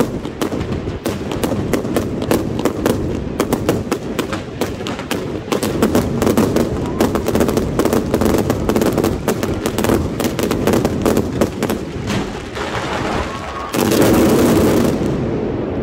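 Aerial fireworks going off in rapid, dense succession: many bangs and crackles overlapping, with a louder rush of noise lasting about a second near the end.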